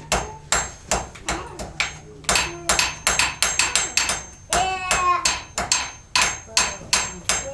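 Blacksmith's hand hammer striking a hot iron rod on an anvil as he forges a nail, about three blows a second with a bright anvil ring. The blows pause briefly about two-thirds of the way through, and a short voice is heard in the gap.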